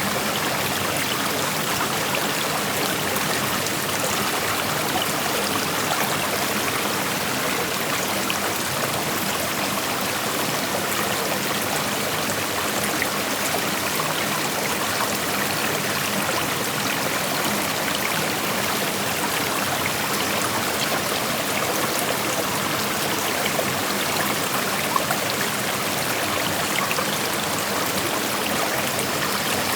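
Shallow creek water flowing and rushing over stones: a steady, even wash with small splashes and trickles scattered through it.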